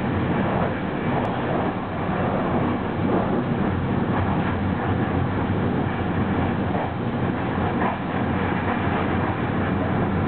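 ÖBB Eurocity passenger train running at about 200 km/h: a steady noise of wheels rolling on rail and air rushing past, heard from inside the train.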